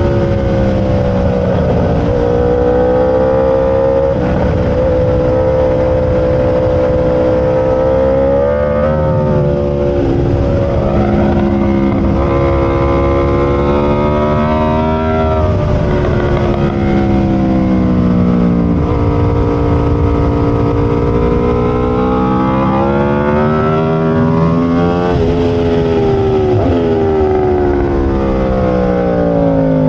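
Aprilia RSV4 V4 engine at racing speed, its pitch climbing, holding, then dropping several times as the bike accelerates down straights and slows into corners, with a steady rush of wind and road noise underneath.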